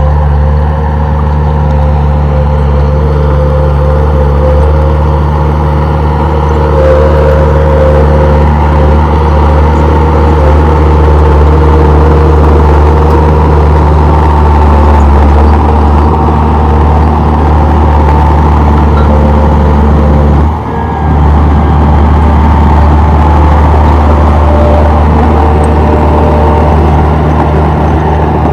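Komatsu D31P bulldozer's diesel engine running steadily, getting louder about a quarter of the way in, with a brief dip in sound about two-thirds of the way through.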